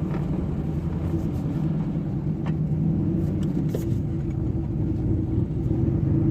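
Pickup truck's gasoline V8 running steadily, with a low even rumble and a few faint ticks.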